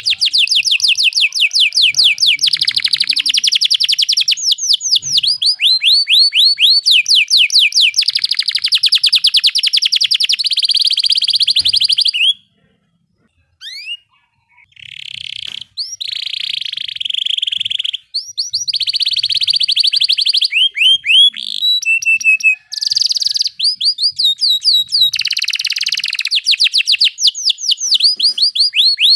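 Domestic canary singing: long rolls of fast, evenly repeated high notes and trills. There is a short pause a little before the middle, and a few briefer breaks later.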